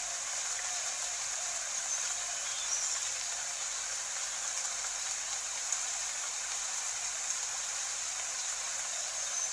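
Steady rain, an even hiss of falling drops with no let-up.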